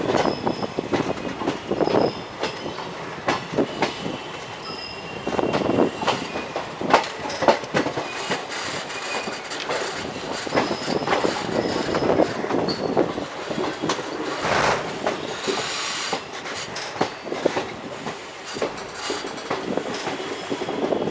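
Passenger train running on the track, its wheels clattering over rail joints in irregular knocks, with faint high wheel squeal at times.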